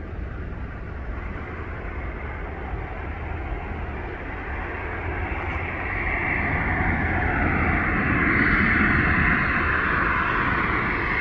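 Cessna 550 Citation II's twin turbofan jet engines and rushing air, a steady noise with a low hum. It grows louder in the second half, where an engine whine slides down in pitch.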